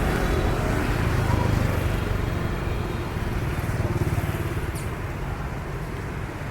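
Motorbike riding through street traffic: a steady engine and road rumble, with a brief high-pitched chirp about five seconds in.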